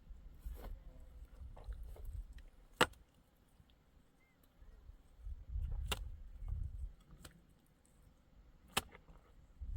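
Three sharp knocks, about three seconds apart, over faint low rumbling.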